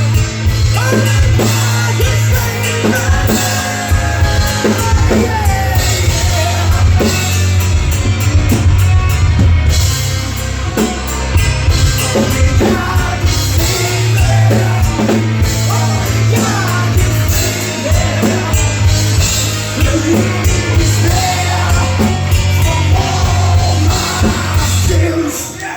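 A live rock band playing loud with drums, bass and a singer, the song stopping suddenly at the very end.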